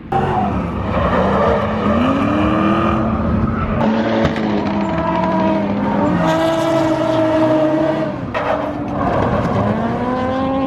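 Drift cars on track, their engines revving up and down as they slide, with tyre squeal.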